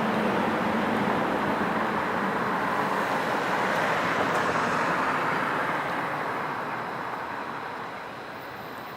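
Noise of a passing vehicle, with no siren, fading away over the last few seconds.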